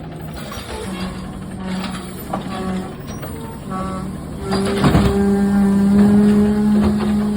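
Garbage truck running with a steady hum that grows louder and stronger about halfway through, with scattered clanks and a loud knock just after the rise.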